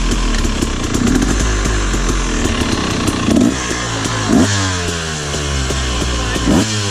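Motorcycle engine running and being revved, its pitch rising and falling in repeated blips, with sharp rev spikes in the second half; it has just been brought back to life after river water got into its carburettor and airbox.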